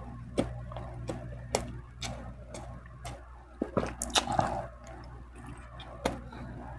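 Wet mouth sounds of a person chewing a mouthful of rice and fish: irregular small clicks and lip smacks.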